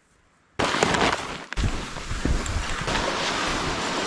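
Blizzard wind rushing and buffeting the microphone, cutting in suddenly about half a second in after near silence and staying loud and steady.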